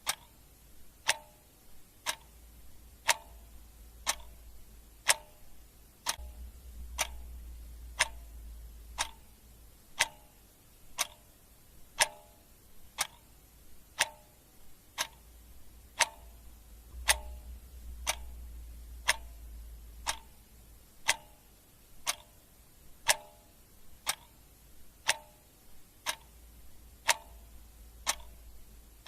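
Clock ticking steadily at one tick a second, the strokes alternating between a sharper tick and a fuller tock.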